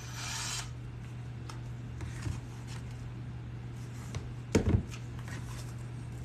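Workbench handling sounds between drilling passes: a brief hissing rush at the start, a few light clicks, and one sharp knock about four and a half seconds in, over a steady low hum.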